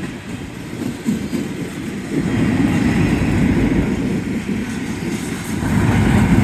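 Intermodal freight cars rolling slowly past on the rails, a steady low noise of steel wheels on track.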